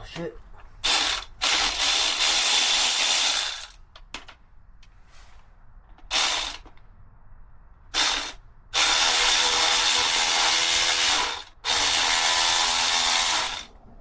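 Electric ratchet running in bursts, with a steady high whine: short blips about a second in, near six seconds and near eight seconds, and longer runs of two to three seconds, working a fastener on a motorcycle battery brace.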